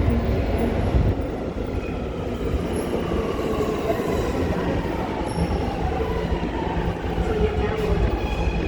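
New York City subway train on the A/C line running on the rails: a steady low rumble with a faint tone that slowly falls in pitch through the middle.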